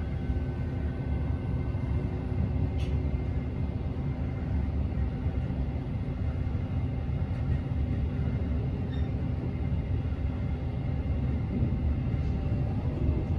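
Steady low rumble of a JR E653 series electric train heard from inside the passenger cabin as it moves out of a station, with a few faint steady motor tones above it and a single light click about three seconds in.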